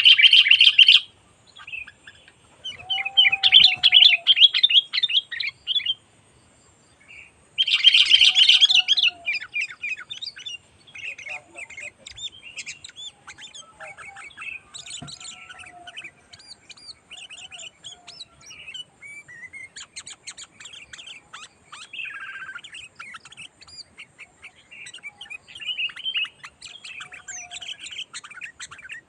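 Sooty-headed bulbuls calling: three loud bursts of rapid, bubbly chattering in the first ten seconds, then softer, continuous chatter with short whistled notes.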